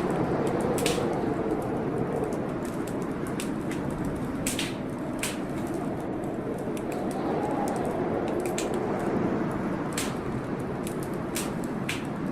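Wood fire in a fireplace crackling, with frequent irregular sharp pops, over a steady rushing storm sound that swells briefly about seven seconds in.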